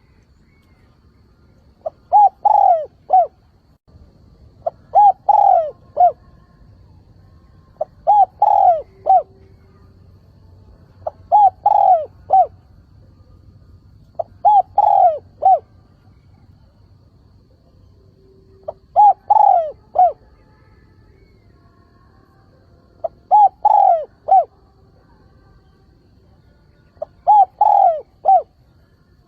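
Spotted dove cooing its calling song: eight short phrases of a few coos each, one every three to four seconds, the kind of call used to lure wild doves.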